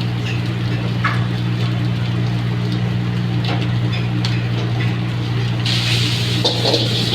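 Steady low hum of a commercial wok burner, with a few light knocks of the ladle against the wok. About six seconds in, a loud sizzle starts in the hot wok.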